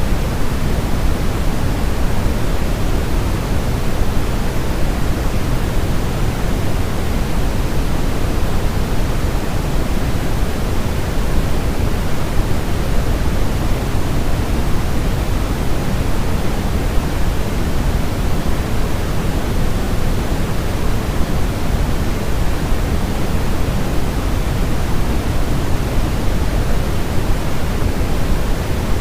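Steady, even white noise with most of its weight in the low end, like a deep rushing hiss.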